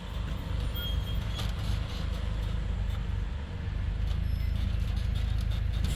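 Heavy vehicle engine running, a low steady rumble that grows a little louder about halfway through.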